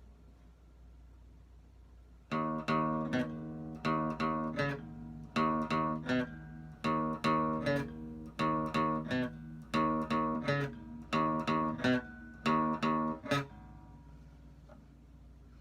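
Acoustic guitar strumming a repeating chord pattern, starting about two seconds in; the strumming stops near the end and the last chord rings out.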